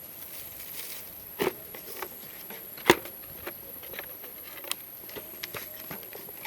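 A scattered handful of light taps and clicks over a faint steady background, the sharpest about three seconds in.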